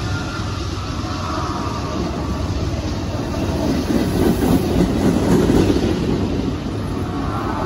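Several BNSF GE diesel-electric locomotives, among them a Dash 9-44CW, running past at close range, engines working and wheels rolling over the rails. The sound swells a little about four to six seconds in.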